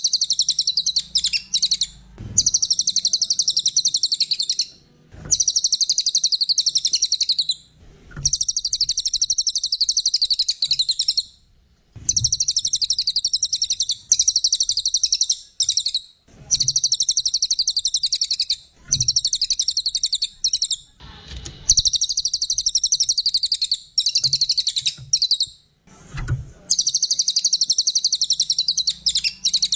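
A songbird sings in a high, fast, rapidly trilled chatter. The phrases last two to three seconds each, about ten in all, with short pauses between them. Short dull low thumps fall in several of the pauses.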